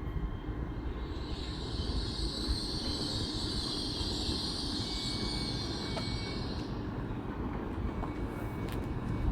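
Train running on the line: a steady low rumble, with a high hissing noise from the wheels and rails that swells about a second in and fades near seven seconds.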